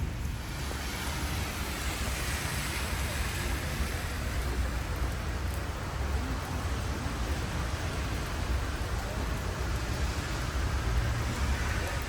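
Steady rain falling, heard as an even hiss over a low rumble.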